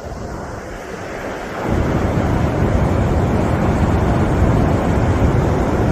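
Wind buffeting the microphone as a deep, rumbling rush, which gets much louder about a second and a half in.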